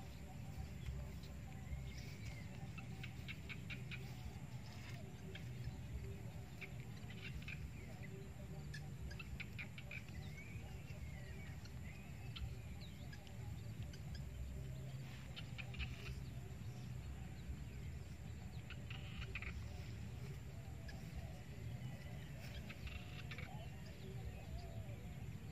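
Faint birdsong: short chirps, small rising and falling calls and quick trills come and go over a steady low rumble.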